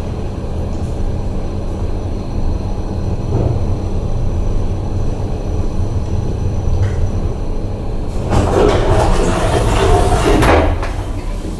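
KONE MiniSpace traction elevator running with a steady low rumble, and a louder rush of noise lasting about two and a half seconds, starting about eight seconds in.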